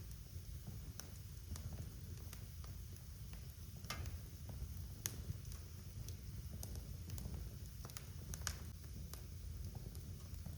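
Wood fire burning in a fireplace: a steady low rumble of flame with scattered sharp crackles and pops, a few louder snaps about 4, 5 and 8.5 seconds in.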